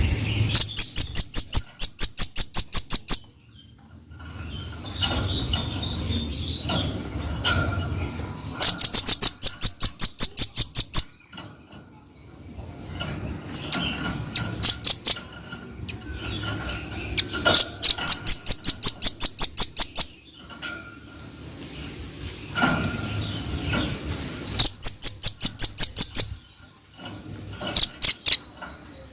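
Velvet-fronted nuthatch calling: loud bursts of rapid, high, evenly spaced notes, about six a second, each burst lasting two to three seconds and repeated several times with short pauses between.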